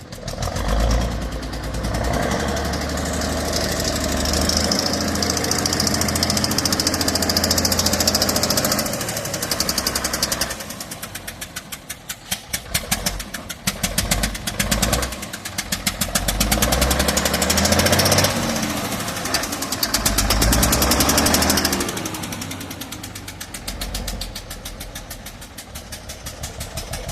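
Diesel engine of a Scania L71 Regent truck running roughly. It gets louder twice and drops back between and near the end to a lower, lumpy running where each firing pulse can be heard. The rough sound is put down to a blown head gasket on cylinder 1.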